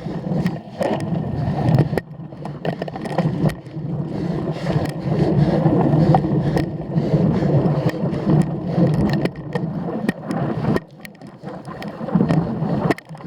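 Cyclocross bike ridden over rough ground: uneven tyre and frame rumble with frequent rattling clicks and knocks, easing off briefly near the end.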